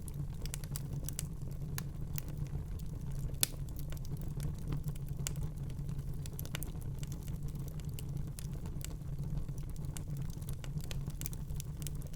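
Wood fire burning in a fireplace: irregular crackles and small pops over a steady low rumble of the flames, with one sharper pop about three and a half seconds in.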